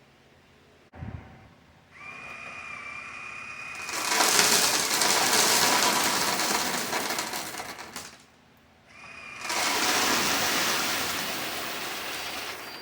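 One knock, then the whine of a 1:14-scale RC hydraulic machine's pump for about two seconds, followed by a loud rush of loose rock pouring for about four seconds. After a short pause with the whine briefly back, a second rush of pouring rock lasts about three seconds.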